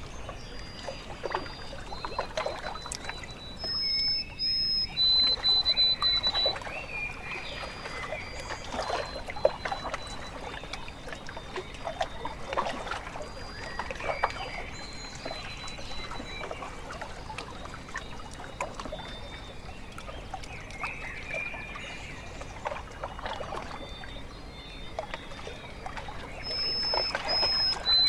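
Small waves lapping and splashing at a lake shore, with birds calling in short, high whistled notes. The loudest whistles come about four seconds in and again near the end.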